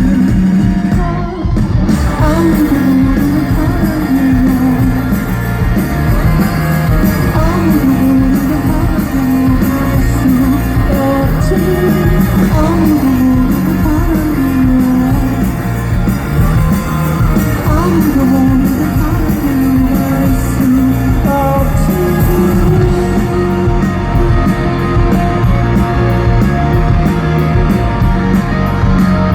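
Rock band playing live and loud: electric guitars, bass and drums, with a sung or guitar melody line that bends up and down. Near the end the melody settles on a long held note while the cymbals tick quickly and evenly.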